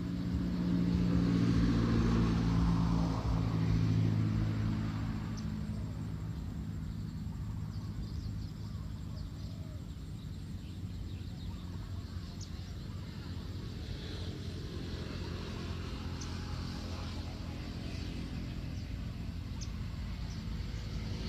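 Engine hum of a passing motor vehicle, loudest in the first few seconds and then fading into a steady low rumble. A few faint, short high chirps are scattered over it.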